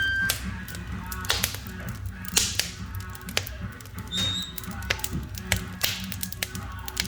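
Firewood burning in a wood stove, crackling and popping in irregular sharp snaps over a low steady hum, with a brief high whistle about four seconds in.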